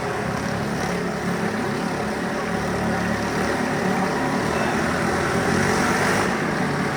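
Motorcycle engines running steadily as riders circle the wall of death.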